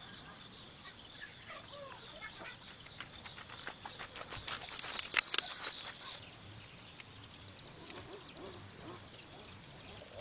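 Outdoor ambience with a run of sharp clicks and crackles in the middle, over a steady high hiss and a few faint bird chirps.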